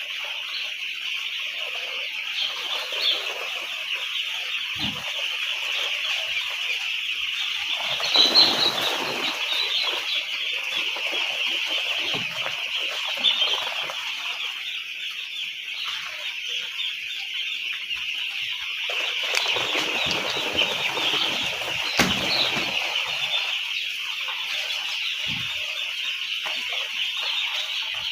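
Continuous high peeping of a large flock of broiler chicks in a poultry shed. Broader rustling swells in about a third of the way in and again near three quarters through, with one sharp click near the end of that second swell.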